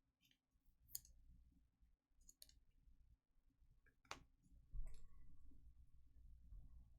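Quiet handling of trading cards: a few faint, scattered clicks and taps over low room hum.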